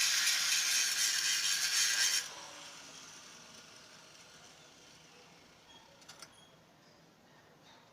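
A loud, steady, hissing mechanical noise stops abruptly about two seconds in. A faint tail follows, with a couple of light clicks near the end.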